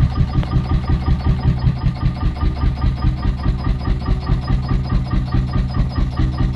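Skandia 13 A two-stroke hot bulb engine running steadily at low speed, with an even, rhythmic beat of several firing pulses a second.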